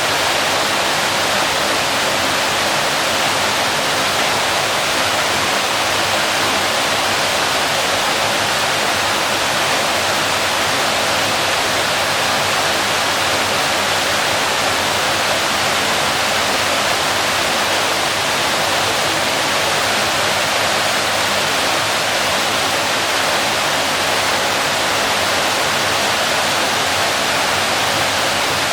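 Waterfall: water falling and splashing in a loud, steady rush that does not change.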